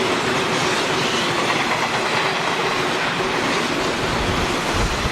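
JR East 485 series electric train passing close by: steady rolling noise of wheels on rail with a clickety-clack over the rail joints and a faint steady hum. Near the end, wind buffets the microphone with low rumbling gusts.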